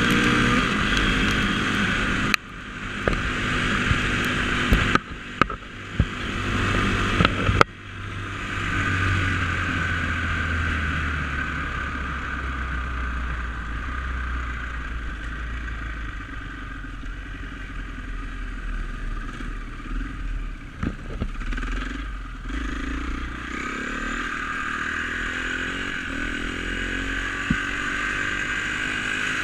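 Dirt bike engine running and revving as the bike is ridden, its pitch rising and falling. There are several sharp knocks and clatters in the first eight seconds or so.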